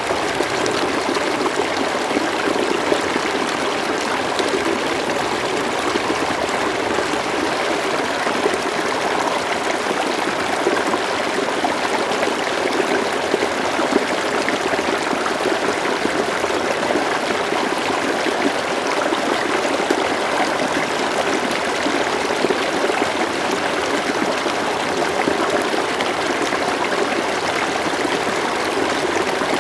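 River water flowing steadily, a continuous rushing and trickling with no pauses or changes.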